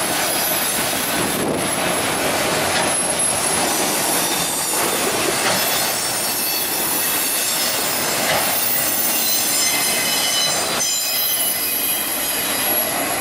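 Loaded autorack freight cars rolling past on curved track, the wheels squealing in several high-pitched steady tones over the steady rumble of the cars.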